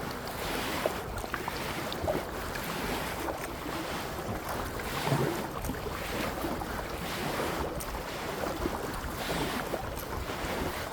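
Kayak paddle strokes splashing in the water about once a second, with wind buffeting the microphone.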